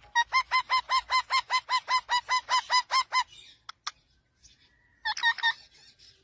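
Parrot giving a fast run of short repeated calls, about five or six a second, for about three seconds. After a pause come two sharp clicks, then a quick burst of three more calls near the end.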